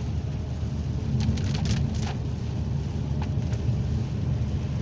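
Car driving through heavy rain, heard from inside the cabin: a steady low rumble of engine and tyres on the wet road under a hiss of rain. About a second in comes a quick cluster of sharp taps from large raindrops hitting the car, with a few more taps near the middle.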